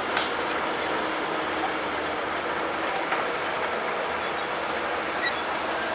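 Bulldozer working: steady diesel engine noise with the metallic clanking and squeaking of its steel tracks, dotted with small clicks.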